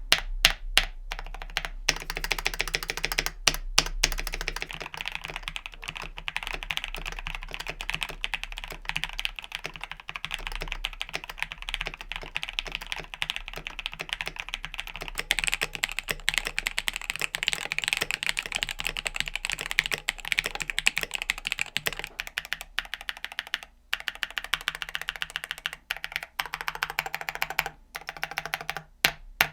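Mechanical keyboard with pre-lubed NK Silk Olivia linear switches being typed on quickly and continuously, a fairly high-pitched clacking. A few harder single keystrokes stand out in the first few seconds. A faint steady low hum runs underneath.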